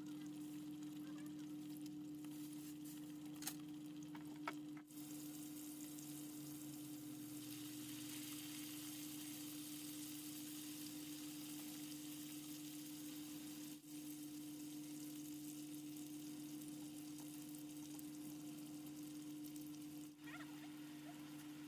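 Steady sizzling hiss of food cooking, with a constant low hum underneath and a few small clicks in the first seconds.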